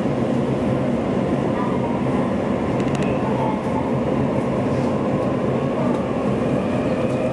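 Electric commuter train running as it pulls out of the station, heard from inside the car: a steady rumble of wheels and running gear with faint whining tones above it.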